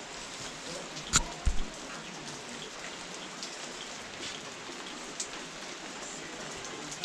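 Steady rain falling, an even hiss with scattered drops ticking. About a second in, two short knocks land close together.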